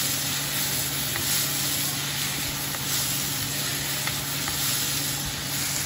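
Sliced onions, garlic and ginger sizzling steadily in hot oil in a nonstick frying pan, stirred and scraped with a wooden spatula.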